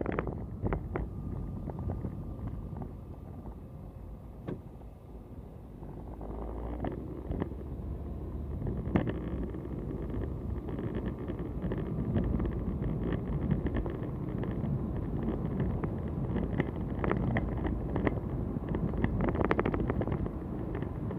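Car cabin while driving: a low road and engine rumble, with a rapid crackling buzz on top from about six seconds in. It is the electrical-sounding noise from the air conditioning that stops when the AC is switched off, which the owner thinks comes from the expansion valve.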